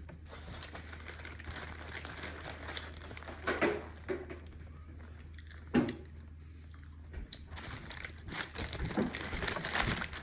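Plastic food packaging crinkling and rustling as it is handled and opened, with a few louder crackles and a steady low hum underneath that stops about seven seconds in.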